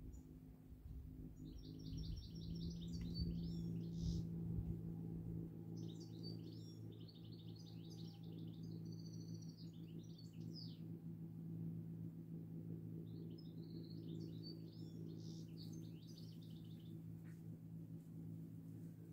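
A songbird singing three high, fast-trilled phrases a few seconds apart, over a steady low hum.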